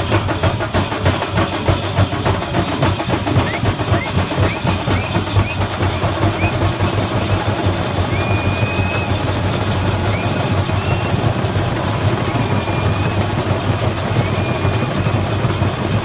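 Thambolam melam percussion band playing a dense, fast drum roll with a steady low boom underneath. From about three and a half seconds in, short high thin tones cut in and out above the drumming.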